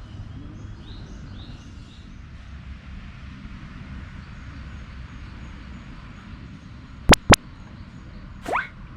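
Outdoor background noise with birds chirping faintly. About seven seconds in come two sharp, loud clicks in quick succession, and near the end a short rising whistle-like sweep.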